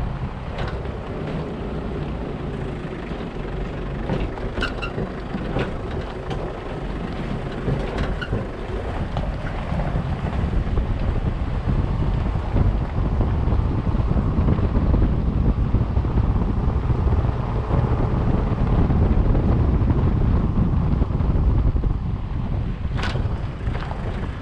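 Wind buffeting the microphone in a steady low rumble that swells a little in the second half, with a few light clicks and a sharp click near the end.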